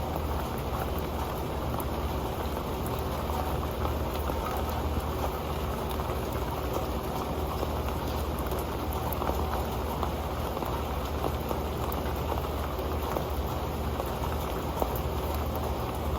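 Rain falling steadily onto an old metal pan: a dense, even patter of drops with scattered sharper taps.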